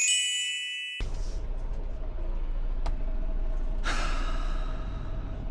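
A brief bright chime, then a semi truck's engine running steadily, heard as a low hum, with a short hiss about four seconds in.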